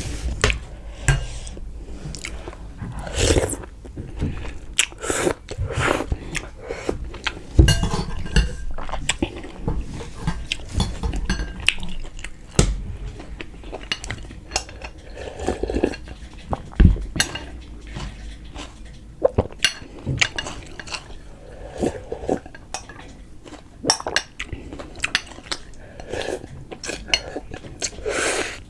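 Close-miked eating: chewing and biting, with cutlery clinking against dishes now and then as short, sharp clicks.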